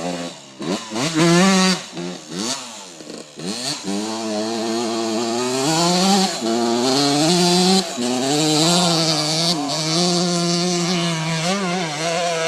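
Suzuki RM125 single-cylinder two-stroke dirt bike engine revving hard under load on a hill climb: a few short rising and falling blips, then held at high revs from about four seconds in, the pitch wavering up and down.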